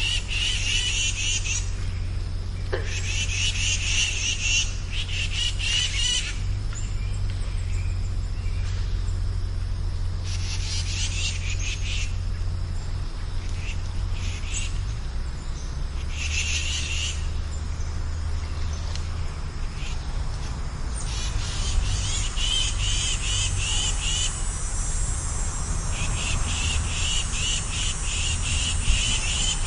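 A chorus of frogs calling in short pulsed trills of about one to two seconds each, several in a row near the end, over a steady low rumble.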